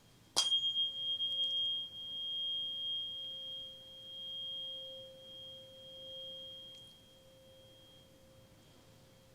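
A 528 Hz tuning fork struck once about half a second in, then ringing a pure, steady tone. Its loudness swells and fades as it rings. A thin high overtone rings with it and dies away near the end, while the low tone carries on.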